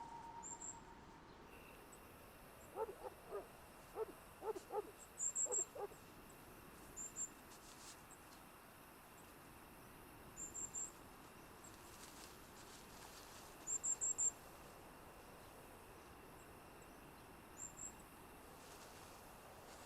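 A small bird giving short high chirps every few seconds over a steady faint hiss of outdoor ambience, with a quick run of soft, short lower sounds a few seconds in.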